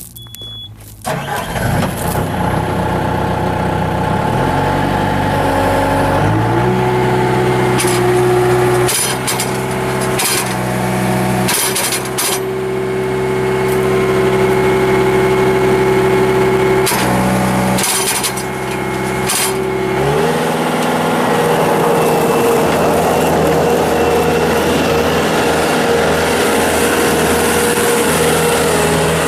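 Bobcat S220 skid steer's diesel engine starting about a second in, then revving up and settling into a steady run, with a few brief clicks in the middle. Near the end the engine speed steps up and the sound turns rougher.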